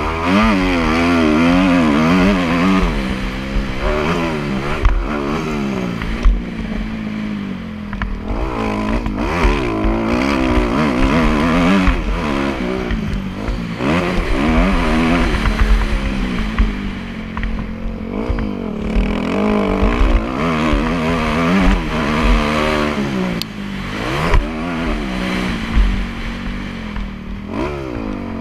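Motocross bike engine revving up and down over and over, its pitch rising and falling with the throttle and gear changes.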